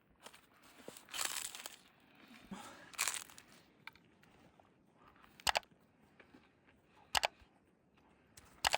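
Two stretches of crunching, about one and three seconds in, then three short sharp clicks, the last one doubled.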